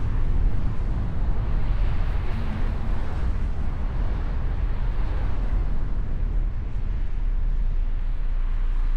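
Mustang convertible driving: a steady low rumble of road and wind noise.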